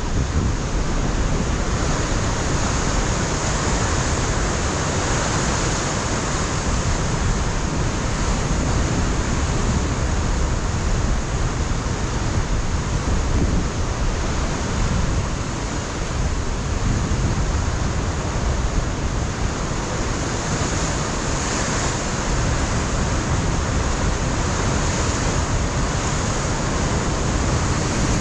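Ocean surf breaking against a rocky shore in a steady wash, with wind buffeting the microphone in the low rumble.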